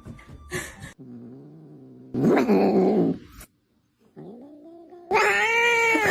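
Cat yowling and growling: a low drawn-out growl, then a louder rough yowl about two seconds in. After a brief silent break comes a wavering meow and a long, loud wail near the end.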